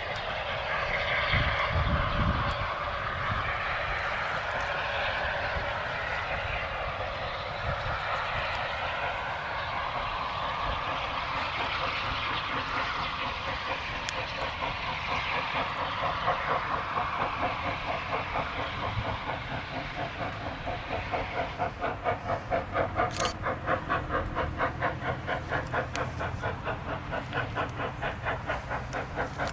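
Train passing: a steady rush of noise, then, from about two-thirds of the way through, a fast, even rhythmic beat that grows clearer.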